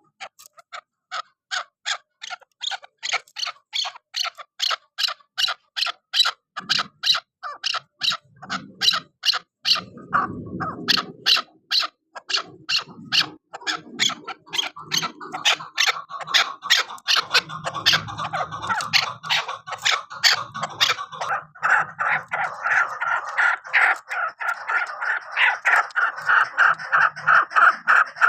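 Chukar partridge calling: a long run of sharp, repeated chuk notes at about three a second that grows faster and denser. From about halfway through, a second, more continuous chattering layer joins in.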